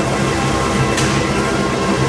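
Motorcycle engines running steadily at high revs inside a steel stunt globe, mixed with loud music, with one sharp click about halfway through.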